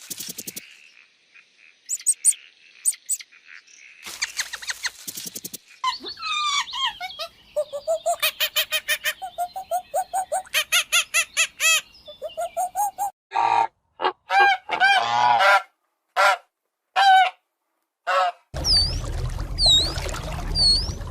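Poultry calling: a long run of quick, repeated honking calls, then several separate louder calls. Near the end, small birds chirp in short swooping notes over a steady low hum.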